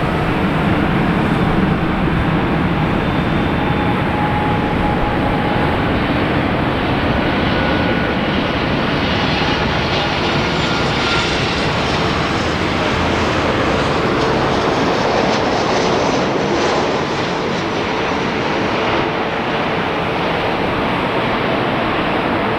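Jet airliner engines running, a loud, steady rush of noise with faint whining tones riding on it.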